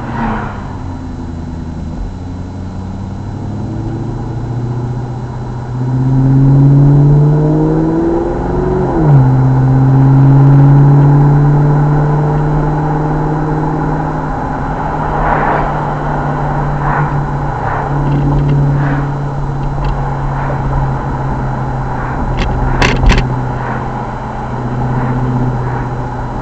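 Car engine heard from inside the cabin, accelerating with a rising pitch, dropping sharply at a gear change about nine seconds in, then running steadily at cruising speed. Scattered light rattles and clicks in the second half, with a sharp couple of clicks near the end.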